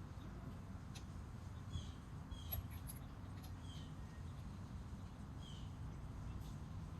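A few short, high chirps from a small bird, slightly falling in pitch, over a steady low rumble, with a few sharp clicks.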